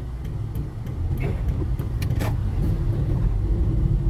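Steady low rumble of a moving road vehicle's engine and tyres in traffic.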